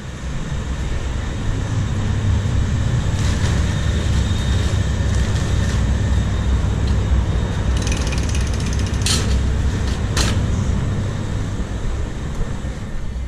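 A steady low mechanical rumble from a running machine, building over the first second or two and easing near the end, with a burst of rapid clicking about eight seconds in and two sharp clicks shortly after.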